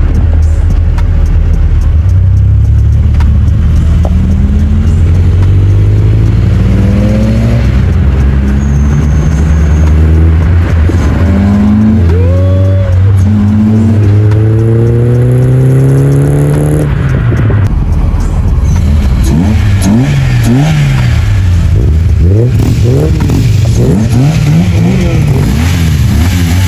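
VW Polo's rebuilt 1.4 engine pulling up through the gears, its pitch climbing and dropping back at each shift. From about 17 seconds in it is revved up and down in quick, repeated blips.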